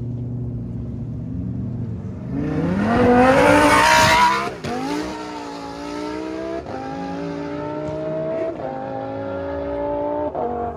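A car engine at low revs, then revving hard about two seconds in with a burst of tyre squeal. It then pulls away through several gear changes, its pitch climbing and dropping back at each shift about every two seconds.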